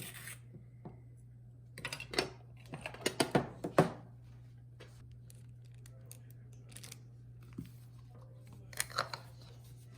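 Scattered clicks and knocks of objects being handled, bunched about two to four seconds in and again near the end, over a steady low hum.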